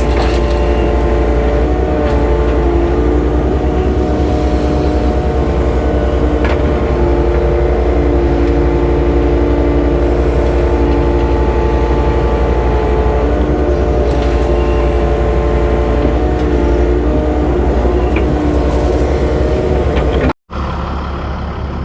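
Dump truck engine running steadily at a constant speed, a loud, even drone with a low rumble. It cuts out abruptly about twenty seconds in.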